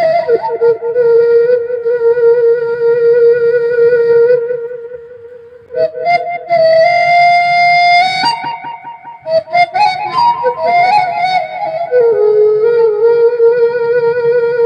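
Sundanese suling bamboo flute playing a slow melody of long held notes with vibrato, over plucked kecapi zither. The flute fades out briefly about five seconds in, then comes back on a higher note before settling lower again near the end.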